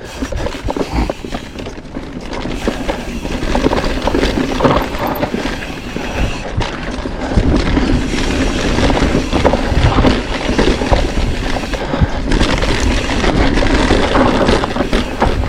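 Mountain bike riding over a rough dirt forest trail: tyre noise and constant rattling and knocking over bumps, with wind rumbling on the microphone.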